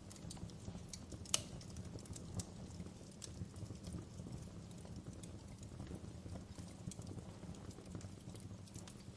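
Wood fire in a fireplace crackling: irregular small pops and snaps over a low steady rumble of the flames, with one sharper pop about a second and a half in.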